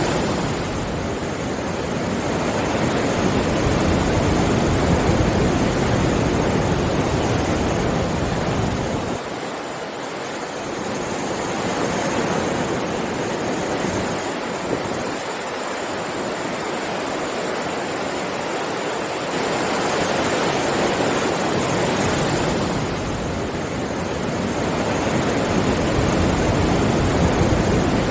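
Ocean waves breaking and washing on a beach: a continuous surf noise that swells and ebbs every several seconds, easing off for a while in the middle.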